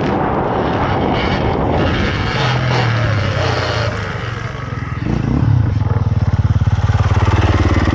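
Dirt bike running on a motocross track, with wind and tyre noise. It eases off about four seconds in, then picks up again with a fast pulsing hum.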